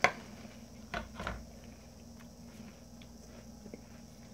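Person eating crunchy cereal: a sharp click at the start and two short crunches about a second in, then only faint ticks.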